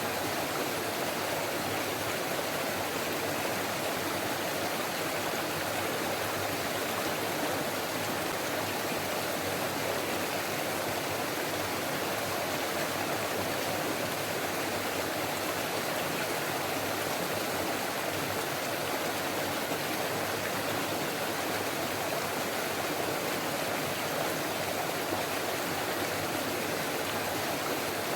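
Forest stream running over rocks, a steady babble of flowing water with no change.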